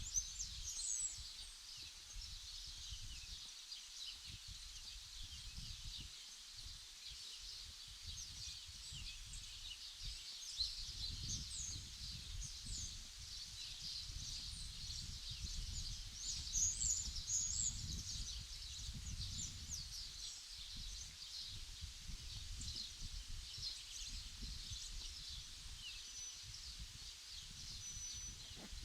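Songbirds chirping steadily in many short, quick notes, a little louder about a second in and again around two-thirds of the way through, over a low rumble that rises and falls.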